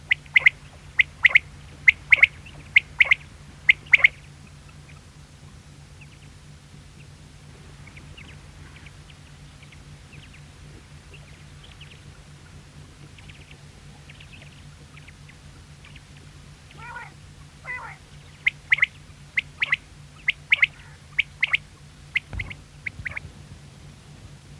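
Quail calling: two bursts of short, sharp, repeated notes, one at the start and one near the end. Two falling notes come just before the second burst, and fainter calls are heard in between. A steady low hum runs underneath.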